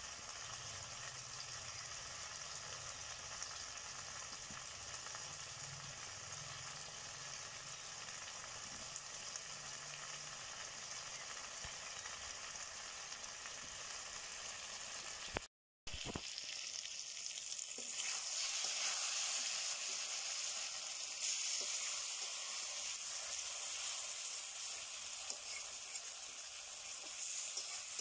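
Chicken pieces sizzling steadily in oily gravy in an iron kadai. The sound cuts out for a moment a little past halfway, then comes back louder.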